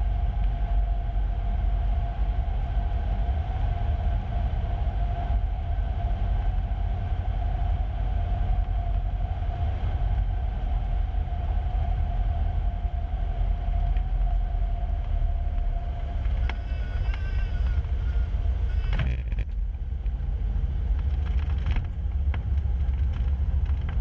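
Cessna 150's four-cylinder Continental O-200 engine and cabin noise, heard through the headset intercom as a steady low drone during the final approach and landing for a touch and go. About two-thirds of the way through there is a brief high-pitched tone, then a couple of sharp clicks.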